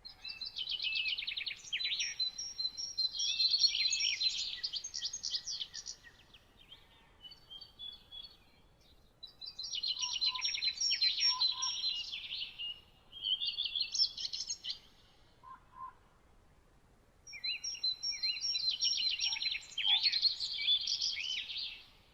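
A songbird singing long, rapid, jumbled song phrases in three bouts of several seconds each, with short pauses between. A few softer, lower notes sound in the pauses.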